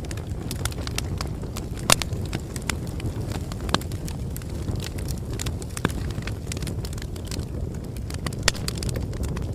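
Bonfire burning with a steady low rumble and irregular crackling, and a few louder pops, the sharpest about two seconds in.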